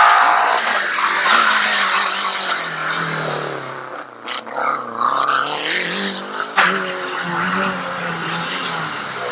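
Rally car engine at full throttle on a special stage, its pitch rising and falling several times as the driver accelerates, shifts and brakes for corners, with tyre noise underneath.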